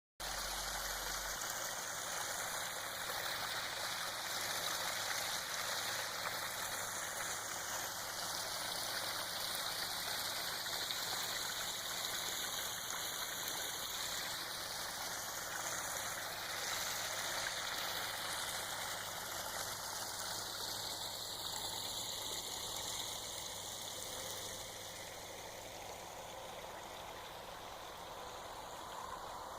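Backyard landscape waterfall: water spilling and splashing in a steady rush, a little softer near the end.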